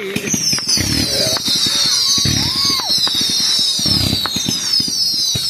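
Aerial fireworks: a cluster of whistling shells, many high whistles at once, falling slowly in pitch, over crackling and three dull bursts.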